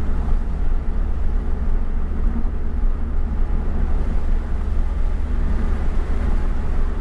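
Turbocharged Subaru flat-four engine of a sports car with a modified exhaust, running steadily with road and cabin rumble, heard from inside the car.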